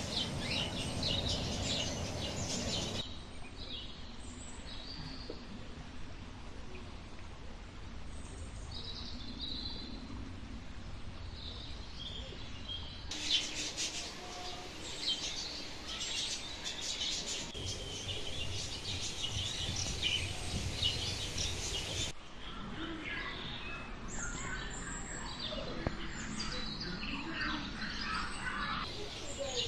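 Small birds chirping and calling, many short high calls overlapping, over a low rumble. The background changes abruptly three or four times where separate recordings are cut together.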